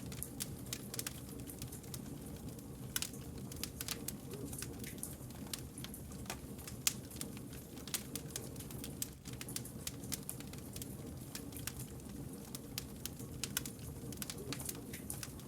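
Wood fire burning with irregular sharp crackles and pops from the burning logs, over a continuous low rumble from the flames.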